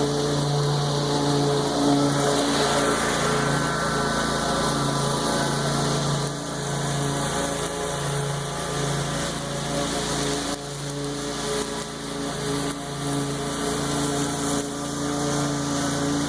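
Lawn mower engine running steadily at a constant pitch while mowing tall grass, with small dips in loudness now and then.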